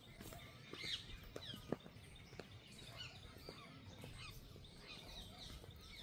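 Birds chirping faintly in short high calls, with a few sharp ticks, the loudest one just under two seconds in.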